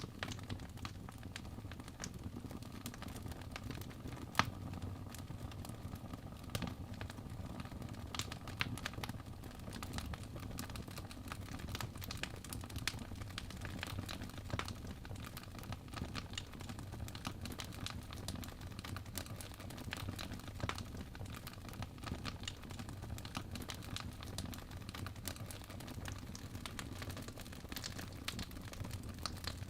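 Wood fire crackling in a fireplace: a steady low rumble of flames with frequent small pops and snaps, one louder pop about four seconds in.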